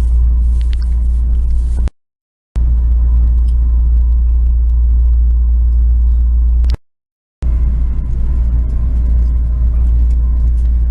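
Passenger train running at speed, a loud steady low rumble heard from inside the carriage. The sound cuts out completely twice for about half a second.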